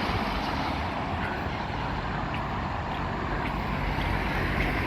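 Steady outdoor rushing noise with no distinct event, the kind of ambience picked up by a phone microphone on a seafront.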